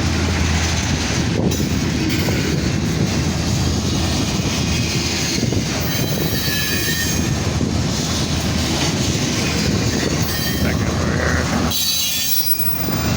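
Freight train cars rolling past close by, a steady rumble and clatter of wheels on the rails, with thin high-pitched wheel squeals about halfway through and again near the end.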